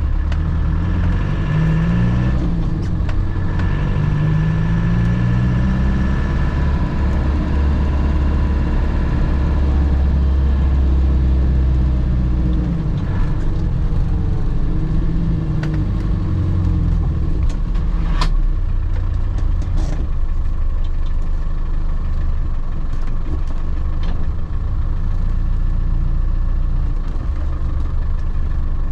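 1998 Land Rover Defender heard from inside the cab while driving. The engine climbs in pitch and drops back several times in the first few seconds, as it accelerates through the gears, then settles to a steady drone at cruise. A few sharp clicks or rattles come through about two-thirds of the way in.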